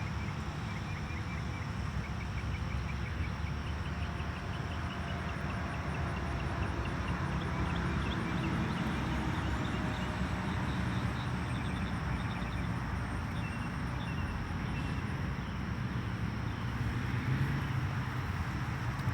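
Outdoor ambience: a steady low rumble under trains of short, evenly repeated high chirps from small animals.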